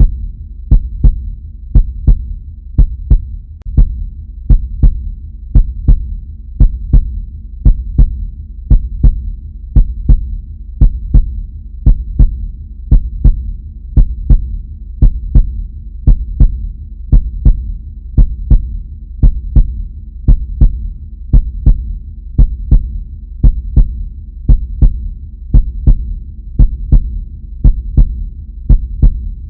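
Heartbeat sound effect: a steady, even rhythm of about one beat a second, each beat a close double pulse (lub-dub), over a constant low hum.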